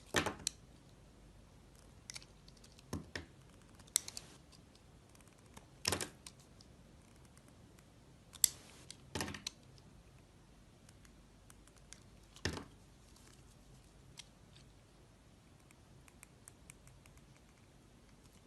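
Knife cutting into a bar of soap: short, crisp cuts and scrapes, about nine of them at irregular intervals with quiet pauses between.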